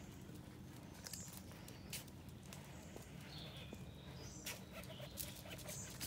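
Faint bird chirps, a few short high calls scattered through, over a low steady background, with a few light clicks from a small dog's claws on paving stones.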